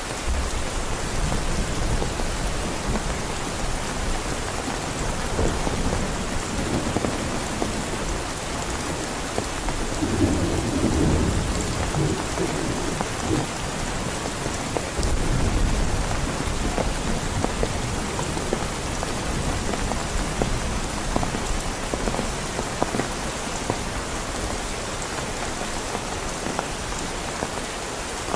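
Heavy rain falling steadily, with thunder rumbling low underneath; the rumble swells about ten seconds in and again a few seconds later.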